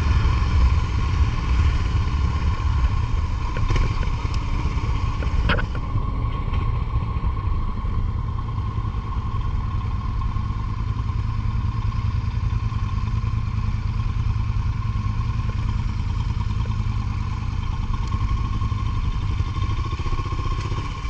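Motorcycle engine running steadily while riding, mixed with heavy wind and road noise, with one short sharp click about five and a half seconds in.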